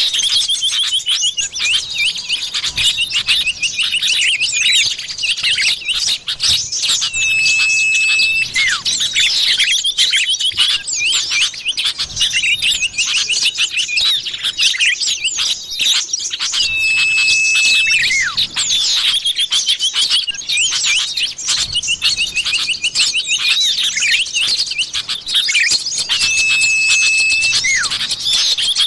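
Common iora (cipoh) calls used as a bird-luring track: dense, fast chirps and trills with a long, level whistle that returns about every nine seconds, as if looped.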